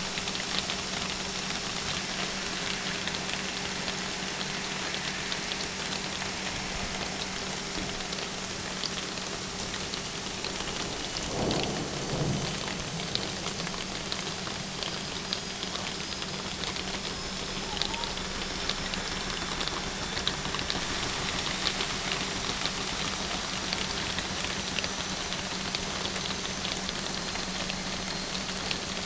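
Heavy rain pouring steadily through trees, with close drops ticking sharply throughout. About eleven seconds in, a brief low rumble of thunder.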